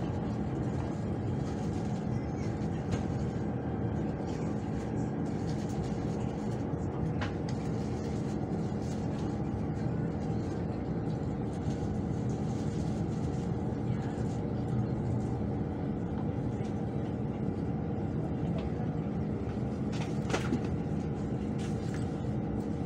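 Cabin noise inside a moving KTM ETS electric train: a steady low rumble and hum, with a sharp click about seven seconds in and another near the end.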